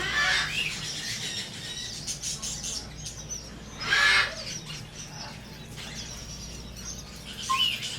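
Store parrots chirping and calling, with scattered short chirps throughout and a louder squawk about four seconds in.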